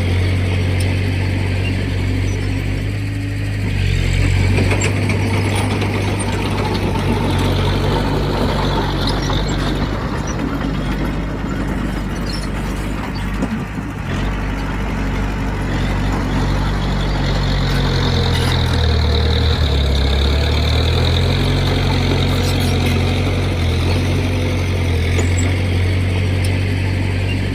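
Heavy diesel engine of earthmoving machinery running continuously, its note shifting a few times as the load changes.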